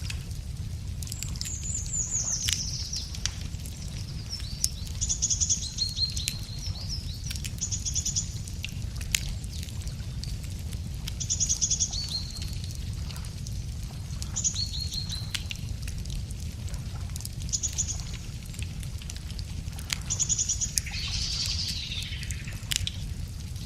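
Wood fire crackling with scattered sharp pops, while a songbird repeats a short, high, fast-trilled phrase every few seconds over a steady low rumble.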